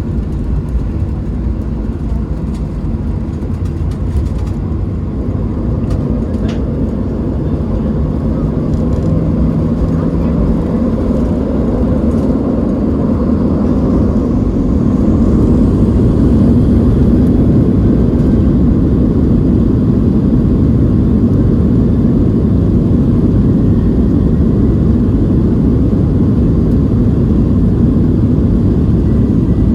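Boeing 737-700 jet engines (CFM56-7B) and airframe rumble heard from inside the passenger cabin. The sound grows louder over about fifteen seconds and then holds steady.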